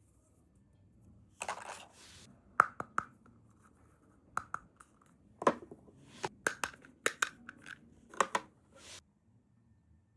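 Small plastic toy pieces being handled: a brief rustle of packaging, then a string of light plastic clicks and taps.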